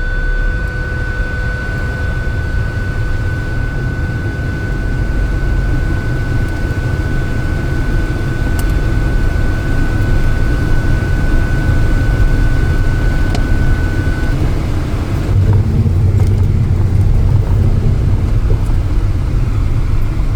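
Car driving, with steady road and engine rumble heard from inside the cabin. A thin, steady high whine runs alongside and stops about two-thirds of the way through.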